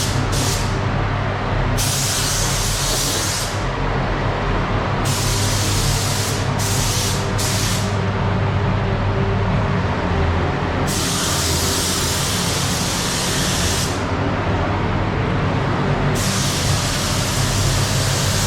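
Repeated bursts of spray hiss, each from a fraction of a second to about three seconds long and cut off sharply, as adhesion promoter is sprayed onto a car bumper, over a steady low hum.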